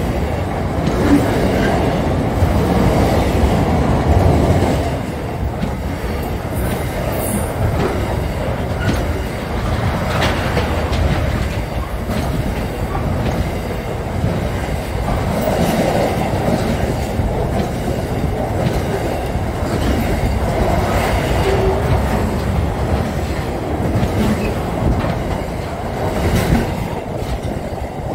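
Freight train wagons rolling past close by: a continuous rumble of steel wheels on the rails, with intermittent knocks as the wheels cross rail joints.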